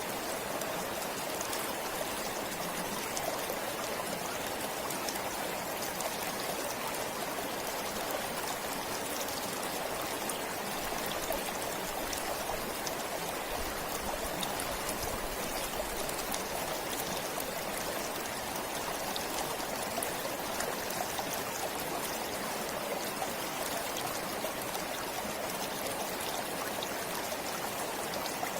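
Forest stream flowing steadily, water running and trickling over rocks in a continuous splashing wash.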